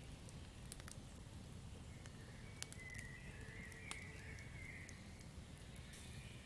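Campfire crackling: irregular sharp pops and snaps over a low steady rumble. Faint chirping calls come in about two to five seconds in.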